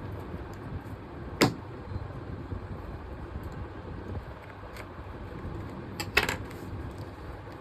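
Sharp clicks of small hard objects knocking together: one about a second and a half in and a quick double click near the end, with a few faint ticks, over a steady low rumble.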